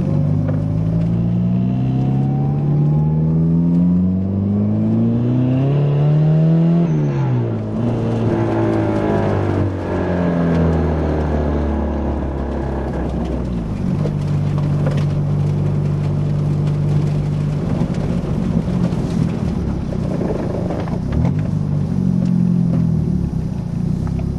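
Turbocharged Nissan 240SX engine accelerating under load, rising in pitch through a gear, dropping at a shift about seven seconds in, and rising again. After a second drop it runs at a fairly steady pitch.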